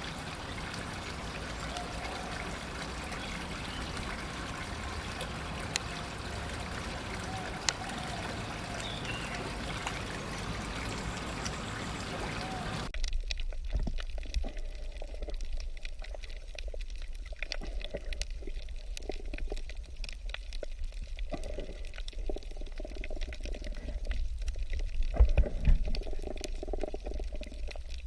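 Flowing water, an even rush that cuts off abruptly about 13 seconds in, replaced by a lower, uneven splashing of water.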